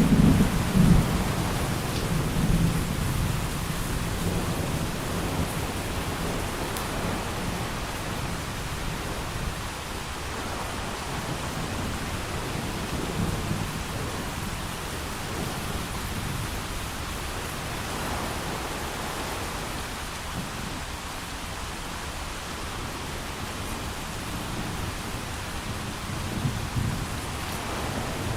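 Thunderstorm: steady heavy rain with rolling thunder. A low rumble fades away over the first few seconds, and another builds near the end.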